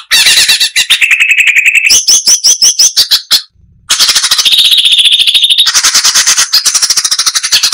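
Cucak cungkok singing a loud, dense song of rapid repeated notes, about eight to ten a second, in long rattling phrases with a brief pause about three and a half seconds in.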